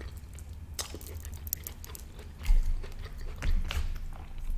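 A person chewing food, with scattered small wet clicks and mouth sounds.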